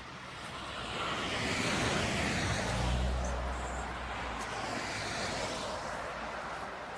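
A vehicle passing by: a swell of road noise with a low rumble that builds over about two seconds, peaks, then slowly fades away.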